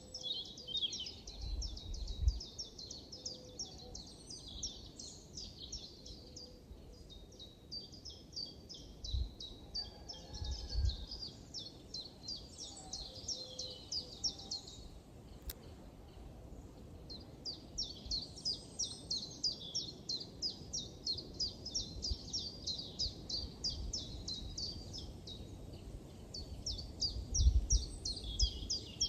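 Birds chirping in a forest, a dense run of rapid, high repeated chirps that lulls briefly about halfway through, with a few low rumbles of wind on the microphone.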